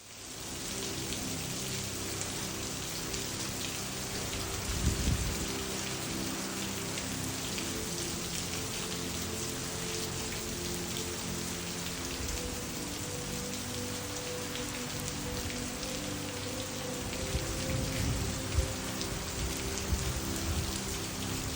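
Steady rain falling, an even hiss dotted with many small drop ticks, after a quick fade-in. Soft sustained low notes sit underneath, and there are a few low rumbles, about five seconds in and again toward the end.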